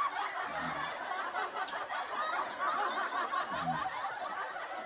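Wet chewing of a bitten raw tomato close to the microphone, juicy and irregular, with two short low hums about a second in and near the end.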